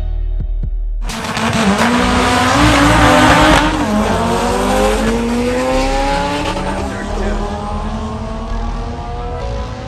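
Turbocharged Honda K24 inline-four in an EK Civic hatchback accelerating hard. A loud rushing noise starts suddenly about a second in, and from about four seconds in the engine note climbs steadily in pitch.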